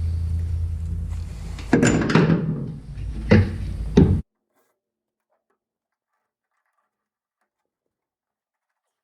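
Several knocks and clunks over a steady low hum, then the sound cuts off abruptly about four seconds in, leaving near silence with a few faint ticks.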